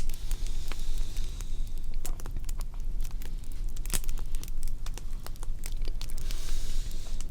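Fire crackling: a dense run of irregular small snaps, with a few louder pops near the start and about two and four seconds in, over a steady low rumble.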